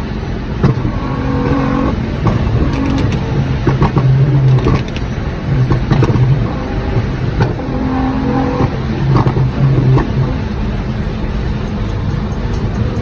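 Performance car's engine and loud exhaust running hard at highway speed, the engine note breaking off and picking up again several times. Scattered sharp exhaust pops and bangs cut through it.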